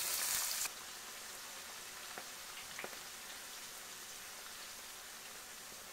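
Onion pieces hitting hot oil in a frying pan: a loud burst of sizzling for under a second, settling into a steady frying hiss with a couple of faint pops.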